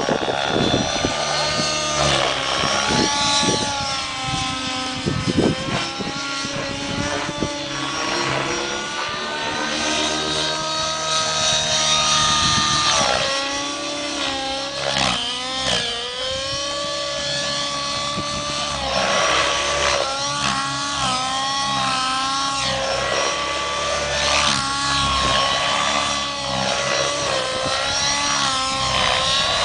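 Align T-Rex 700 nitro radio-controlled helicopter flying 3D manoeuvres: its glow engine and rotor run steadily, the pitch sweeping up and down again and again as the load changes.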